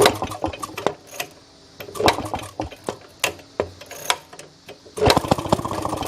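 Small two-stroke gasoline engine of a Maytag wringer washer being cranked and firing in short bursts: it catches briefly near the start and about two seconds in, dies, then fires for about a second near the end. It is hard-starting and will not keep running.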